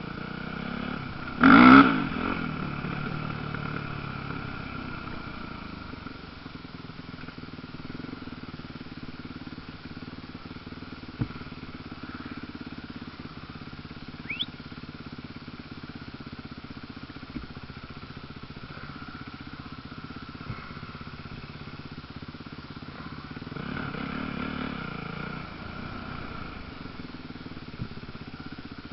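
Motocross dirt bikes: one passes close and loud about two seconds in, its engine note dropping as it goes by, and another passes less loudly near the end, with the drone of bikes running elsewhere on the track in between.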